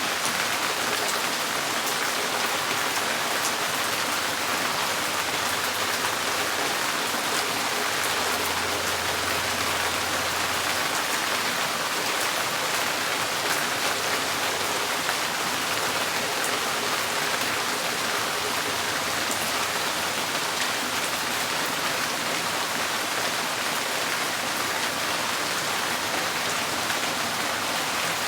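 Steady rain falling on a tin porch roof: an even hiss flecked with the patter of individual drops on the metal.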